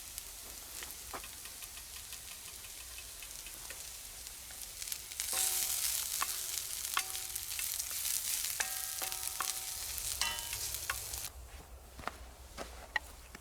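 Food frying in a pan, sizzling with small crackling spatters. The sizzle grows louder about five seconds in and dies down near the end.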